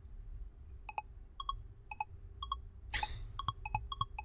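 Countdown timer sound effect: short pitched electronic ticks at about two a second, quickening to about four a second near the end as time runs out, over a low steady hum, with a brief swish about three seconds in.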